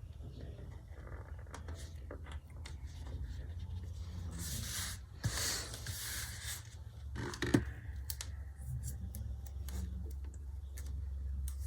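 Paper and washi tape being handled on a planner page: rustling and scraping, with two longer scratchy stretches about four to six seconds in and a sharp tick a little later. A low steady hum runs underneath.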